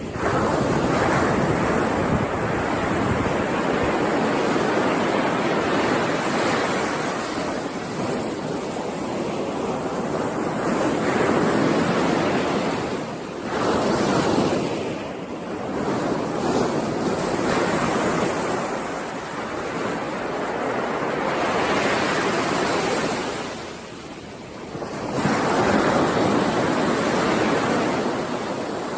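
Ocean surf: waves breaking and washing ashore in a continuous rush that swells and eases, dropping back briefly about 13 and 24 seconds in before the next wave builds.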